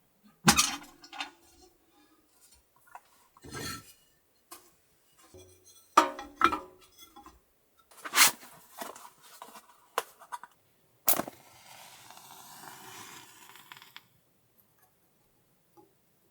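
Pots, dishes and utensils being handled: a series of sharp, separate clinks and knocks, then a steady hiss lasting about three seconds, starting about 11 seconds in.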